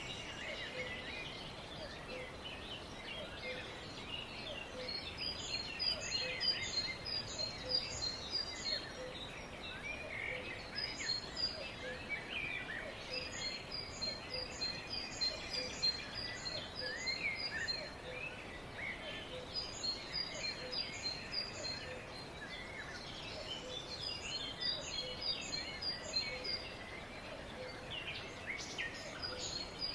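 Several birds chirping and singing together, with one bird repeating a rapid, high series of notes every few seconds over a steady background hiss.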